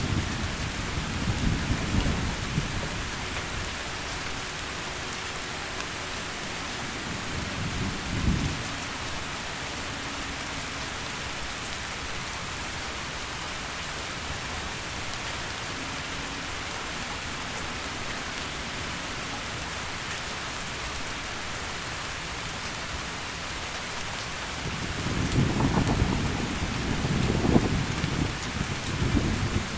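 Heavy rain falling steadily, with deep rolls of thunder rumbling at the start, briefly about eight seconds in, and again over the last few seconds.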